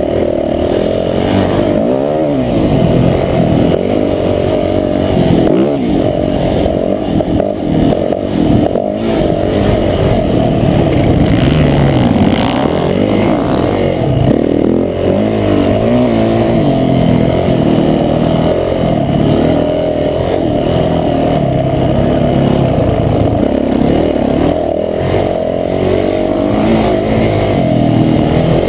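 Motocross bike engine being ridden hard, its pitch rising and falling over and over as the rider opens and closes the throttle and shifts gears around the track.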